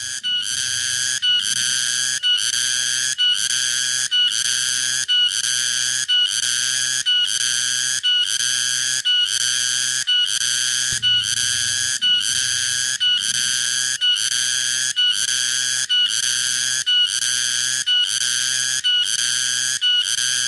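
Cicada (tonggeret) singing in a steady rhythm of shrill pulsed notes, about one a second, each nearly a second long with a short break between.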